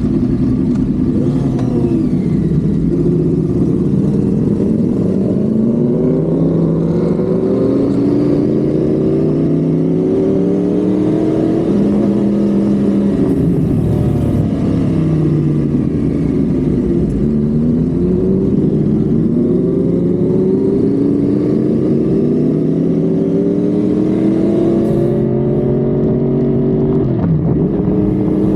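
Honda Civic FD's engine heard onboard, accelerating hard through the gears at highway speed: its pitch climbs repeatedly and drops back at each upshift, with other engines rising and falling in pitch as they pass.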